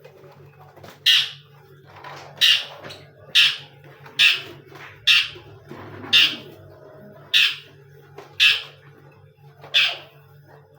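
A caged bird calling: a short, harsh call repeated nine times, about once a second.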